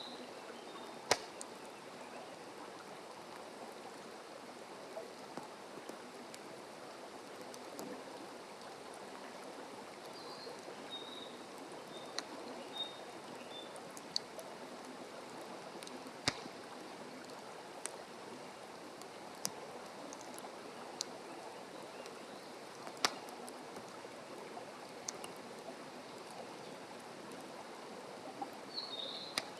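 Wood campfire burning, with sharp irregular crackles and pops every second or two over a steady hiss. A bird chirps briefly a couple of times.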